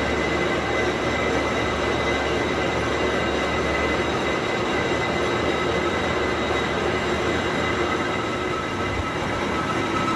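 Workshop machinery running steadily in a gear-shaft repair shop: a dense, even grinding noise with a steady high whine and a low hum, no breaks.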